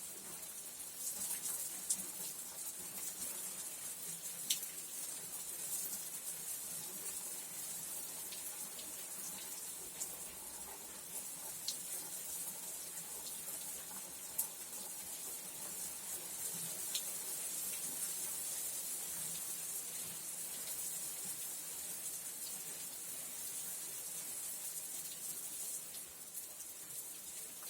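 Rain falling: a steady high hiss with scattered sharp ticks of individual drops.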